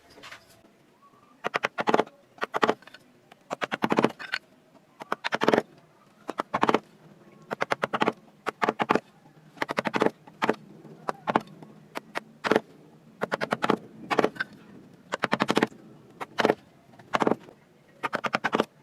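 Carving chisel cutting into wood: short bursts of sharp clicking taps, roughly one burst a second.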